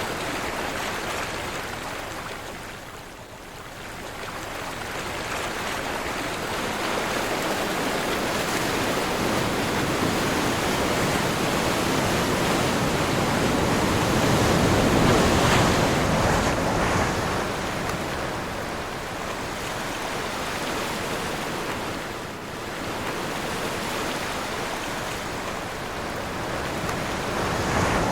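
Ocean surf with waves breaking and washing in, with wind blowing through it. The rush rises and falls: it dips about three seconds in, builds to its loudest around the middle, then eases again.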